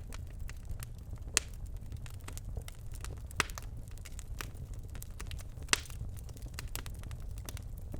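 Birch logs burning in a fireplace, crackling steadily with many small snaps and three louder sharp pops, about a second and a half in, about three and a half seconds in, and near six seconds in, over a low steady rumble.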